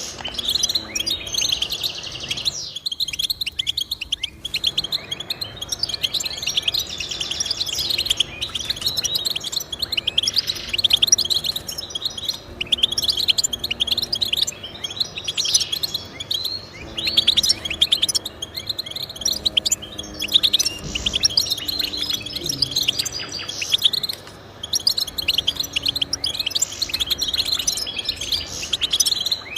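Small finch singing a fast, nearly continuous twittering song of high chirps and trills, with a short pause a few seconds in.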